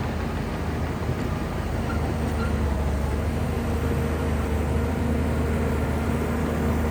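Heavy Shantui bulldozer's diesel engine running steadily with a deep hum, getting a little louder from about two seconds in.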